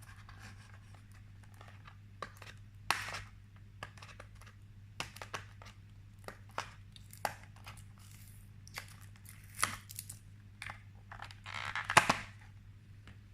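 Headphone retail packaging being opened by hand: scattered tearing, rustling and crinkling with small clicks, the loudest burst about twelve seconds in, over a low steady hum.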